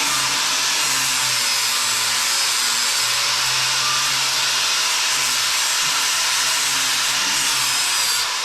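Handheld power sander running steadily, grinding the steel around cracked welds to prepare it for welding: an even hiss that starts and cuts off abruptly.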